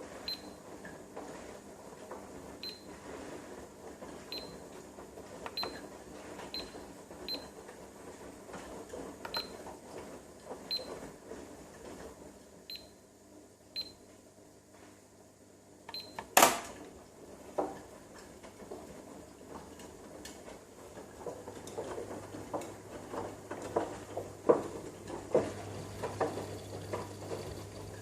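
Front-loading washing machine running a wash, with irregular clicks and knocks from the laundry tumbling in the drum. There is one sharp loud click about midway, and a denser run of knocks over a low steady hum near the end.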